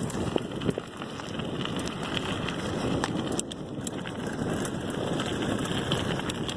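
Mountain bike rolling over a rough dirt trail: steady tyre noise on the ground with scattered clicks and rattles from the bike, and wind buffeting the microphone.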